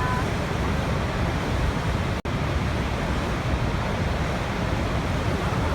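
Waterfall: a steady, dense rush of falling water, heaviest in the low end, broken by a split-second gap about two seconds in.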